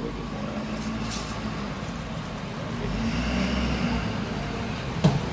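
Ford ambulance's engine running as it drives slowly into the fire station bay, its low rumble swelling as it pulls in. A single sharp knock near the end.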